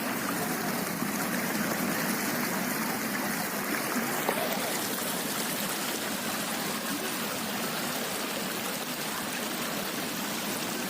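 Floodwater flowing, a steady even rush of water.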